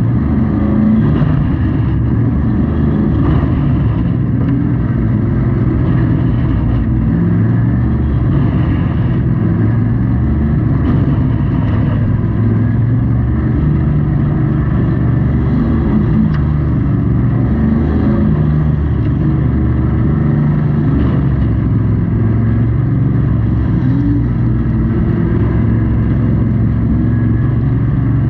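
Race truck's engine heard from inside the cab, running hard and loud without a break, its pitch rising and falling as the revs change.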